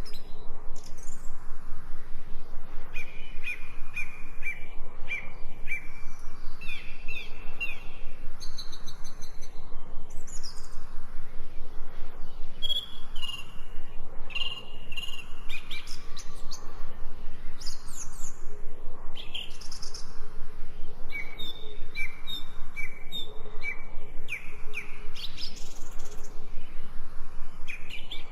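Songbirds chirping: runs of short, quickly repeated notes, several in each run, again and again over a steady background hiss.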